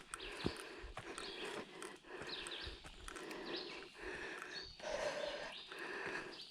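A hiker's footsteps on the trail and their breathing while climbing a slope, in an even rhythm of about one stride a second.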